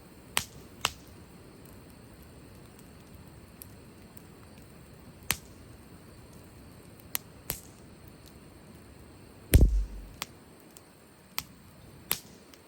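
Wood fire crackling: sharp, irregular pops from the burning firewood over a faint hiss, with one heavier, deeper thump about nine and a half seconds in.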